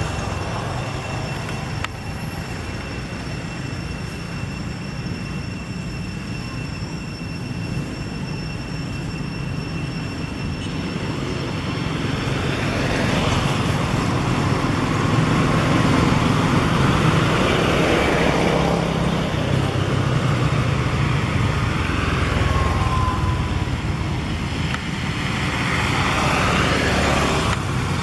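Steady road traffic noise, swelling louder twice as vehicles pass.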